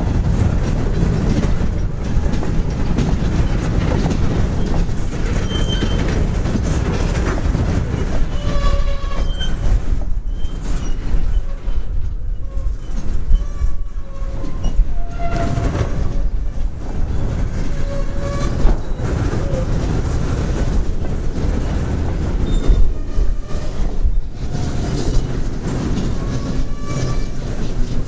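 Freight train rolling past at close range: the steel wheels of covered hoppers and empty centerbeam flatcars rumble and clatter over the rail. From about eight seconds in, short high wheel squeals come and go.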